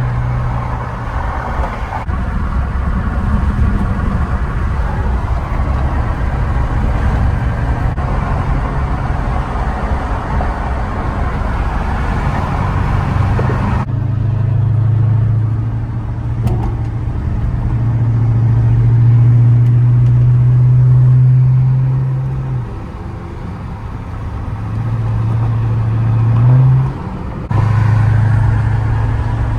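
Steady low drone of a car's engine and road noise heard from inside the cabin while driving. The sound changes abruptly about halfway through, becoming duller, and it briefly swells and dips in the later part.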